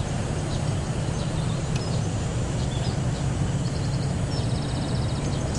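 Steady outdoor background noise with a low hum, and short rapid bird chirps and trills twice in the second half.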